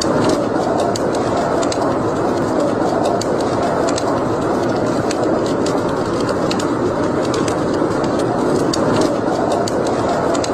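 Wood fire burning in a fireplace: a steady rushing hiss with many small, irregular crackles and pops.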